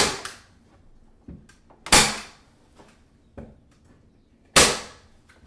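Staple gun firing staples into a wooden frame to fasten the absorber's covering: three sharp snaps, roughly two to three seconds apart, with faint handling clicks between.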